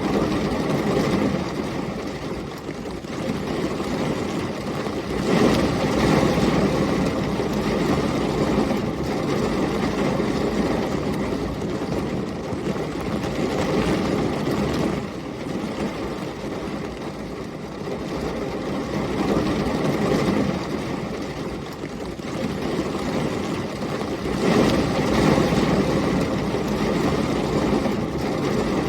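Heavy rain with storm wind, a dense steady rush that swells louder twice, about five seconds in and again near the end.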